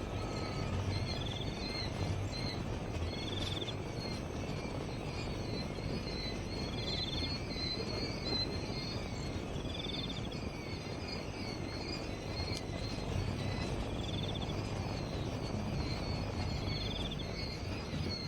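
Insects chirping steadily, with a short trilled chirp repeating every few seconds, over a low rumble of outdoor noise.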